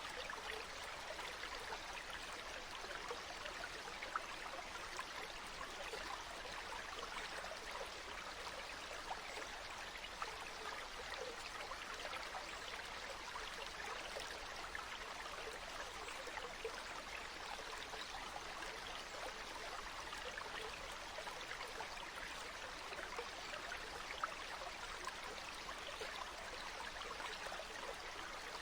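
Small stream running steadily, a continuous rush of flowing water with a few brief louder ticks.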